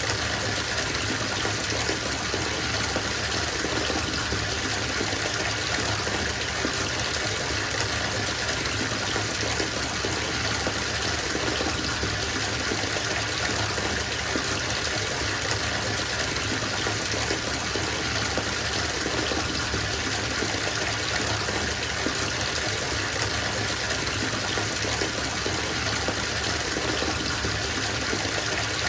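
Tap water pouring steadily into a bathtub as it fills, a constant rushing splash with no breaks.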